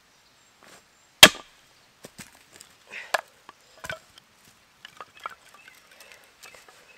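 Seasoned ash wood being split with a chopping blow: one loud sharp crack about a second in, followed by several lighter knocks as the pieces are worked and fall.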